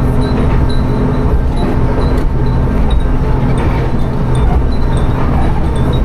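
Diesel railcar running along the line with a steady low rumble. Above it, wind chimes hung in the car tinkle in small, irregular high pings.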